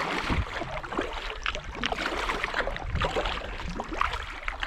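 Water lapping and gurgling against a kayak hull, with irregular small splashes and drips.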